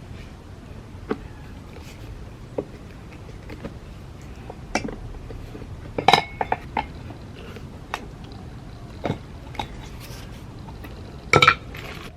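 Metal tire levers clinking against a pit bike's wheel rim as the tire bead is levered onto it: scattered sharp clinks, with the loudest clusters about six seconds in and near the end.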